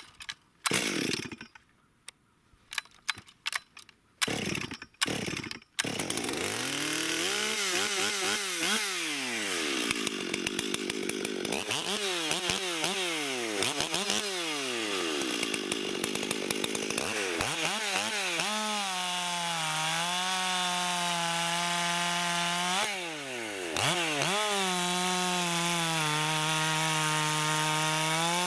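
Ported Stihl 440 chainsaw with a 460 top end and modified muffler, pulled over and firing in short bursts before catching about six seconds in. It revs up and down several times, then runs steadily at high revs as it cuts through pine, with one brief drop near the end.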